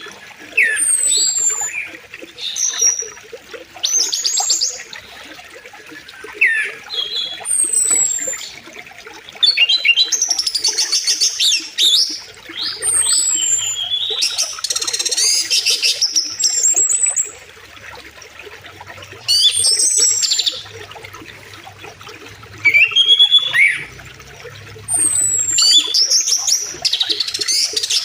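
Songbirds calling and singing, with many short downward-slurred whistles and rapid trills, over a faint steady rush of flowing river water.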